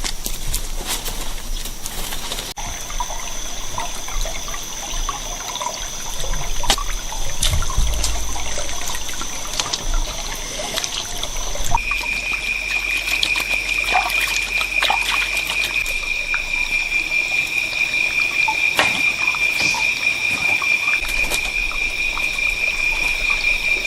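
Rainforest insects droning in steady high pitches, with a louder, steadier call joining about halfway, over trickling water and scattered light clicks and knocks.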